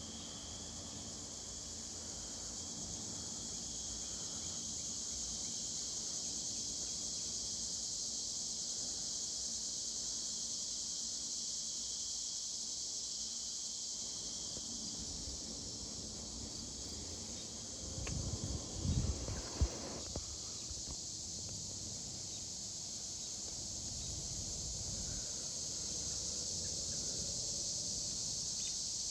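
A chorus of cicadas (locusts) drones steadily and loudly, swelling slightly in the first few seconds. About two-thirds of the way through, a few brief low rumbles come in underneath.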